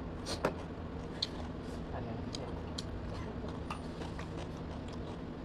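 Close-up mouth sounds of a person eating: chewing with scattered sharp clicks and smacks, several in quick succession in the first half second.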